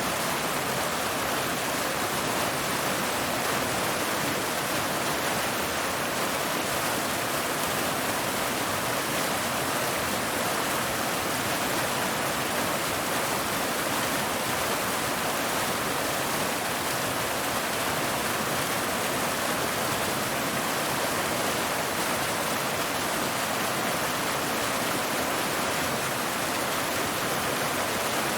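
Waterfall: water cascading over rocks, making a steady, unchanging rush.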